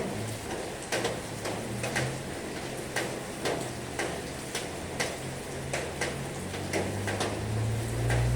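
Steady hiss of heavy rain with sharp, regular ticks about every half second to a second. A low rumble builds near the end.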